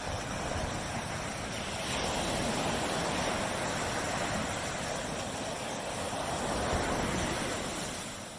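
Surf washing onto a tropical beach: one wave's rush of water swells up about as the clip begins, holds for several seconds and eases off near the end.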